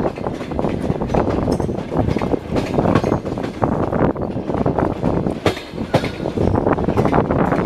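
Passenger train carriage running on the rails, its wheels knocking and clattering over the track with a steady low rumble and carriage rattle.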